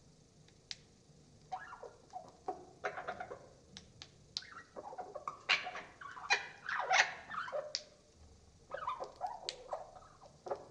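Budgerigar chatter played back slowed down, so the chirps and warbles come out lower and sound like a larger parrot. It comes in two bouts of calls, the first starting about a second and a half in, with a pause of about a second near the end.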